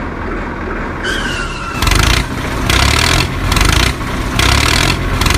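Engine running with a steady low rumble, then from about two seconds in surging again and again in loud pulses, as if revving under load; a brief high tone sounds about a second in.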